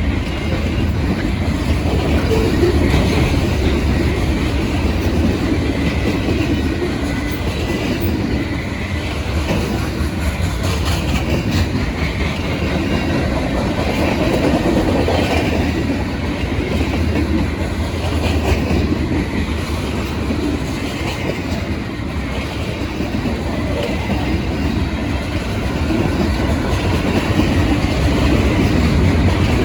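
Norfolk Southern freight train rolling past at close range: a steady, loud rumble of steel wheels on the rails, with rattling and clattering as the cars go by.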